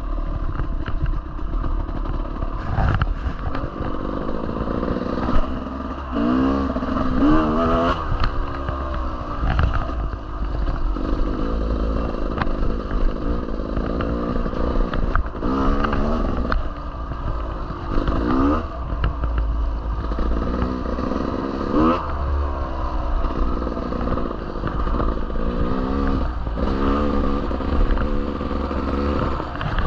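Dirt bike engine on the move, revving up and easing off over and over as the rider works the throttle, with a clattering rattle of the bike beneath it.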